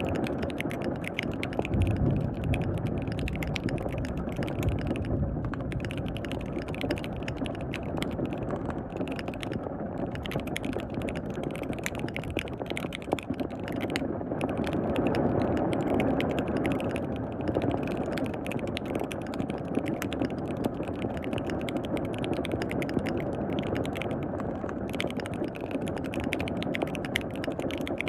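Fast, continuous typing on a KBD67 Lite R3 mechanical keyboard with lubed linear switches. The clicks come in dense runs with a few brief pauses between bursts, over a steady background of rain.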